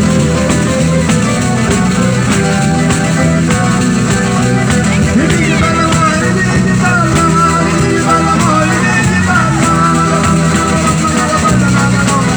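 Pizzica, the folk dance music of the Salento, played by a band, with percussion keeping a steady beat under sustained notes. From about five seconds in, a melody line that slides up and down rises above it.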